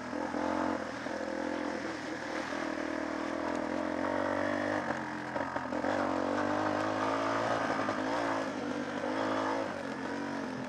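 Small trail motorbike engine running steadily as it is ridden off-road, its pitch wavering slightly with the throttle, with some clatter from the ride.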